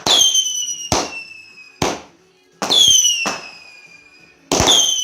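Fireworks going off: a quick series of sharp bangs, about six in all, three of them each setting off a high whistle that slides slowly down in pitch.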